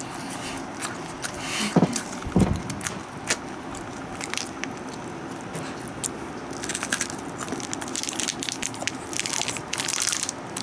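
A chocolate crunch bar being eaten close up: crisp crackling and clicking from chewing and from its foil wrapper being handled, thickest over the last few seconds.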